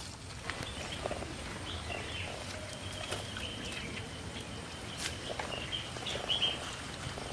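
Birds chirping over the steady hiss of rural outdoor ambience, with a few light clicks.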